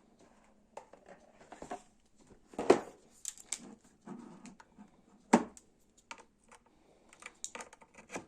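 Scattered light clicks and knocks of objects being handled, with two louder knocks about two and a half and five seconds in.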